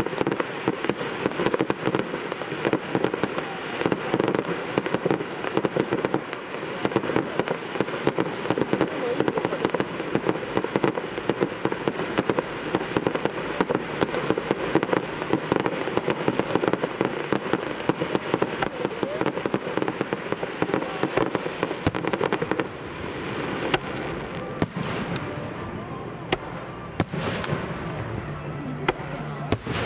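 Aerial fireworks bursting in a dense, rapid barrage of crackling and popping. It thins out to scattered, fainter pops about three-quarters of the way through.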